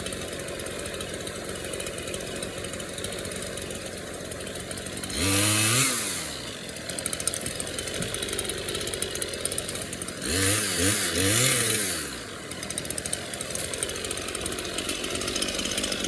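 Small chainsaw idling steadily, revved up once briefly about five seconds in and then twice in quick succession around ten to twelve seconds, the pitch climbing and falling back to idle each time.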